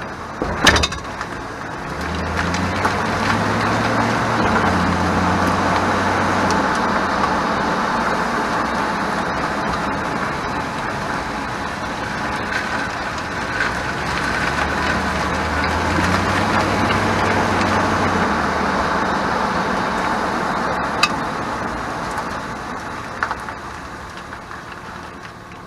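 2001 Chevrolet Silverado 1500 pickup driving: steady road and tyre noise, with the engine pulling up through the gears twice. A few sharp rattling clicks come through, the rear-end rattle over bumps that the owner traced to the e-brake.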